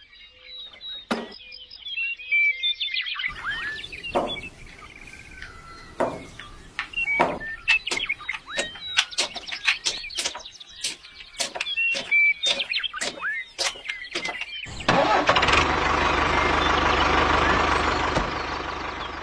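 Many sharp clicks and knocks with small chirps, then about fifteen seconds in a tractor engine starts and runs steadily, dying down a little near the end.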